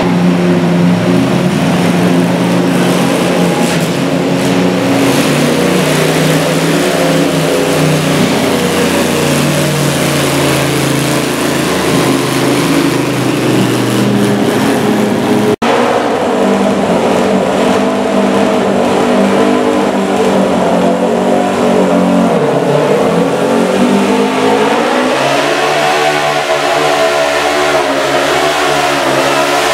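Modified pulling lawn tractor powered by a 283 cubic inch Chevrolet engine, running loud at high revs under pulling load. Its pitch holds fairly steady, then sags and climbs again near the end. There is an abrupt cut about halfway through.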